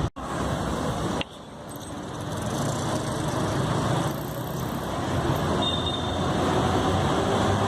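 Road traffic running past, with a brief dropout just after the start and a sudden drop about a second in; the rumble then builds up gradually over a couple of seconds as a vehicle comes closer, and holds steady.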